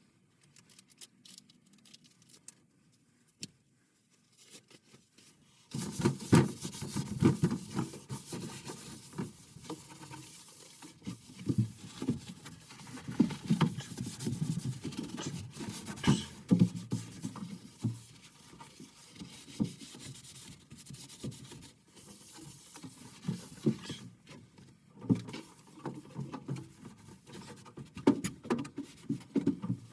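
Irregular rubbing, scraping and knocking of hands and tools working on furnace parts, starting about six seconds in after a near-quiet start.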